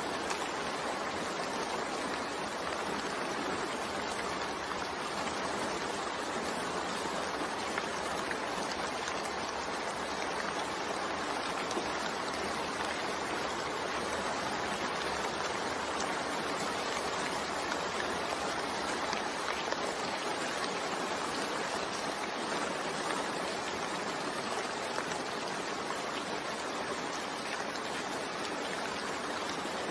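Steady rain falling: a continuous, even hiss of water with no separate drops standing out.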